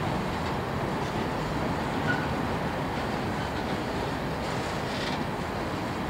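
Empty coal hopper cars of a freight train rolling past, a steady rumble of steel wheels on rail, with one short high squeak about two seconds in.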